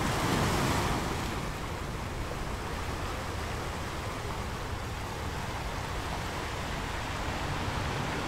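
A steady rushing noise with no calls or tones in it, swelling for about a second near the start.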